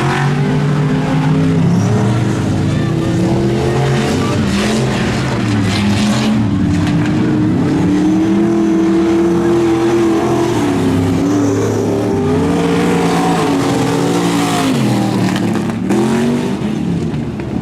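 Monster truck engine running hard, its revs repeatedly climbing and dropping as the throttle is worked.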